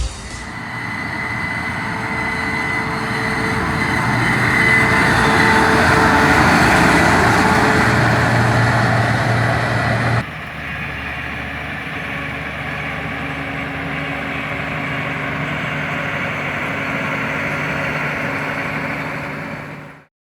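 Diesel farm machinery running steadily at harvest, with a dense mechanical rush. About halfway through it cuts abruptly to a quieter, steadier engine hum, then fades out at the end.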